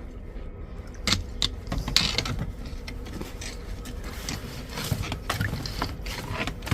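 Drain rods being worked in an outside drain: irregular clinks, knocks and scrapes, with a few sharper knocks about a second and two seconds in and more near the end.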